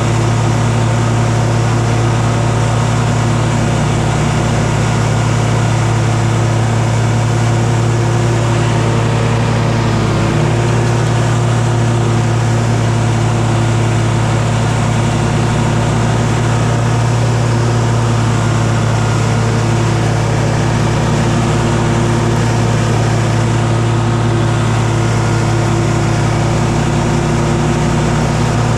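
An engine running steadily at one constant speed, with a dip about ten seconds in.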